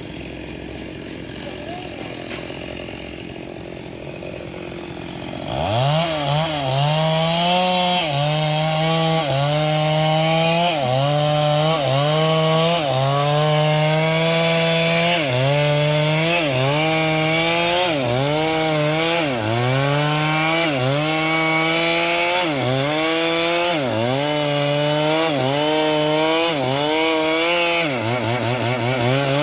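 Stihl MS382 two-stroke chainsaw cutting into a sengon trunk. After a quieter first few seconds the saw revs up and runs at full throttle, its engine pitch dipping and recovering about once a second as the chain bites and the load comes and goes.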